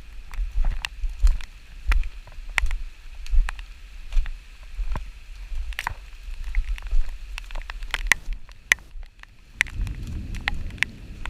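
Raindrops tapping irregularly on the camera in heavy rain, two or three sharp ticks a second, with wind buffeting the microphone in gusts, strongest near the end.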